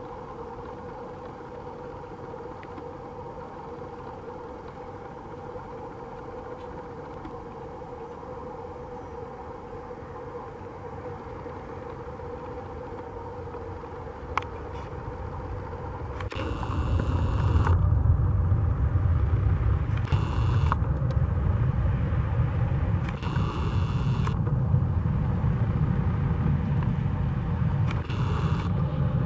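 Jet engines of a Boeing 787-8, Rolls-Royce Trent 1000s, with a steady whine on final approach; about halfway through, a loud low rumble rises sharply and holds as the airliner touches down and rolls out under reverse thrust. Several short bursts of hiss cut in over the rumble.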